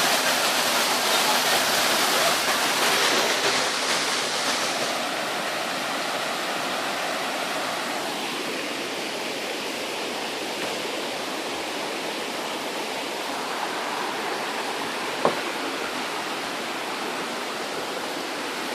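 Steady rush of a waterfall, louder for about the first four seconds and then softer. One sharp click sounds about fifteen seconds in.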